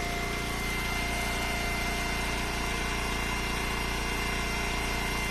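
Eastonmade Ultra kinetic wood splitter's gas engine idling steadily, with a steady high-pitched squeak from a dry moving part that needs grease.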